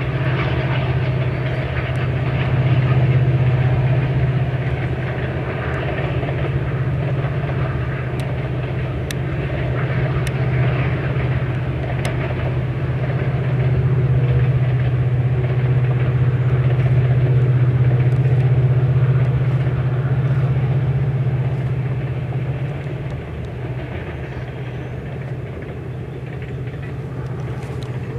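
Long passenger train of coaches rolling across a viaduct: a steady low rumble with some wheel clatter, swelling in the middle and easing off near the end as the last coaches pass.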